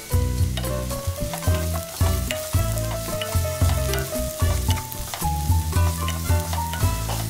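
Fried paneer cubes and vegetables sizzling and being stirred in a non-stick wok, under background music with a steady beat and a stepping melody.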